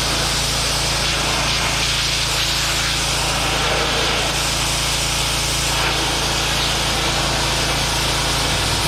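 Pressure washer running steadily, its water jet hissing as it sprays down the side of an engine, over a constant low motor hum.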